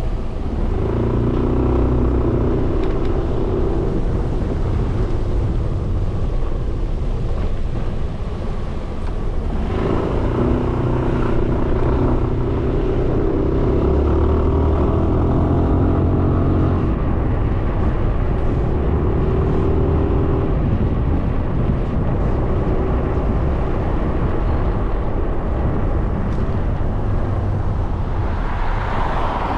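Suzuki Burgman 400 scooter's single-cylinder engine running while riding, its pitch shifting up and down with speed, over steady road and wind noise.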